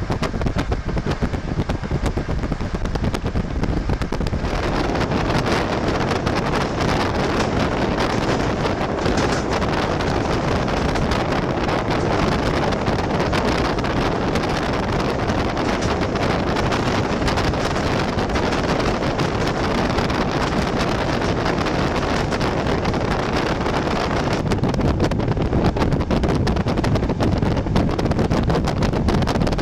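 Moving passenger train: a steady rumble with rushing wind noise. The noise grows fuller and brighter a few seconds in and eases back a few seconds before the end.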